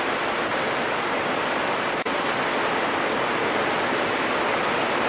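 Steady rush of floodwater in a swollen creek and falls, an even dense noise with a brief dip about two seconds in.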